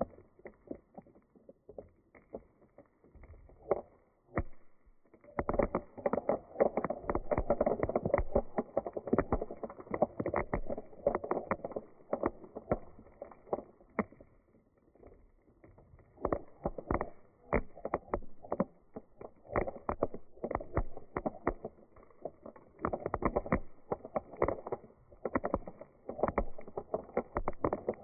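Dry beans rattling and rolling in surging waves of many small clicks. The first few seconds are sparse, a dense run follows, and it thins briefly about halfway before picking up again.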